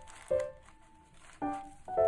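Background piano music: single notes struck a fraction of a second apart, each ringing and fading before the next.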